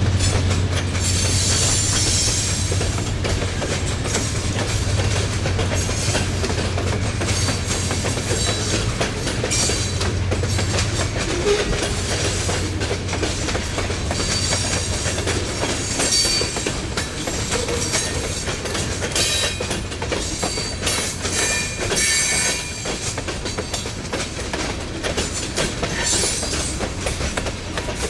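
Train passing close by, its wheels clacking over rail joints with occasional high wheel squeal. A low engine drone is strong at first and fades about halfway through.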